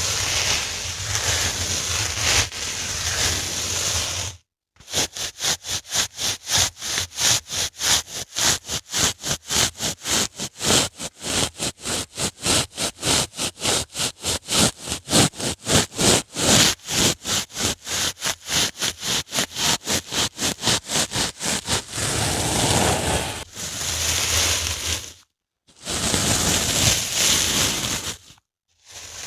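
Dry sponge being rubbed and scratched close up: a few seconds of continuous rubbing, then a long run of quick, even strokes at about three a second, then longer rubs separated by brief pauses.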